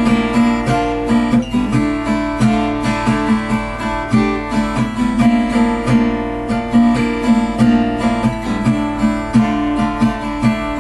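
Acoustic guitar strummed in a steady rhythm, an instrumental break between sung verses of a song.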